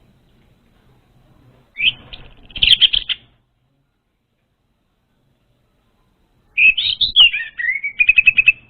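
Orange-headed thrush song in two phrases: first a quick rising note followed by a short rapid chatter, then, after a pause of a few seconds, a run of swooping whistled notes ending in a fast series of repeated notes.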